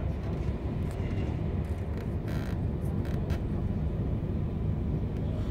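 Steady low rumble of a regional train running along the track, heard from inside the carriage, with a few faint clicks and a brief hiss a little over two seconds in.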